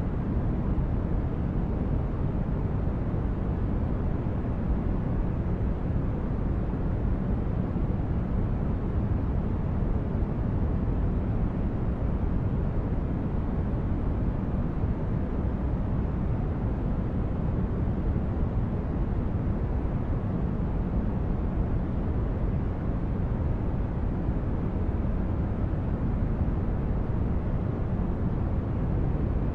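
Continuous sleep-aid noise track: a steady, deep-toned rushing noise, heaviest in the low end, with no rhythm, tones or change.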